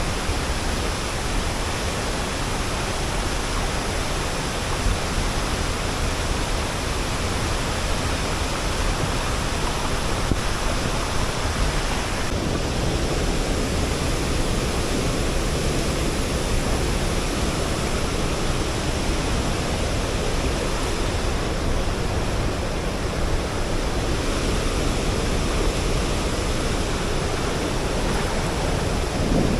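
Steady, unbroken rush of La Fortuna Waterfall's falling water, with no pauses or changes in level.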